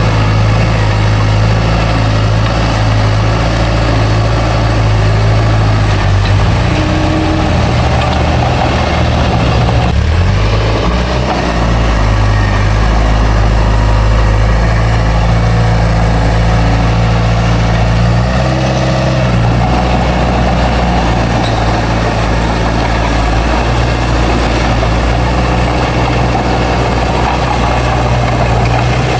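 Heavy diesel engine of a working bulldozer, running loud and steady. Its pitch shifts a couple of times as the load changes, once about a third of the way in and again past the middle.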